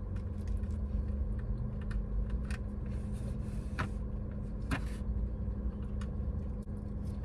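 A person chewing a mouthful of sandwich, with soft mouth noises and a few sharp clicks in the middle, over a steady low hum of a car cabin.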